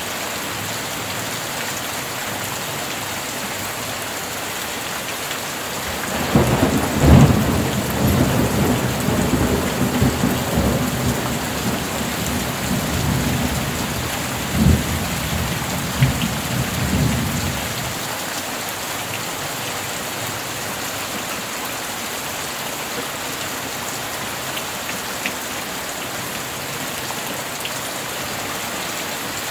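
Steady rain falling throughout. About six seconds in, a roll of thunder begins and rumbles for about twelve seconds, with a few sharper claps within it, then fades, leaving the rain alone.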